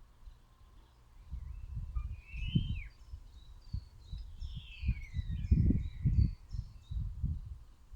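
Garden birds chirping and calling: short chirps and a few longer calls, one swooping and one falling in pitch, over irregular low rumbling gusts of wind on the microphone that are loudest a little past the middle.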